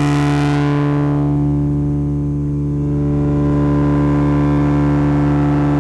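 Handmade drone/noise synth (METSÄÄN Dirty Drone) holding a steady low drone of many stacked tones while its resonant low-pass filter closes. The bright upper part fades away over the first two seconds, leaving a dark, muffled drone.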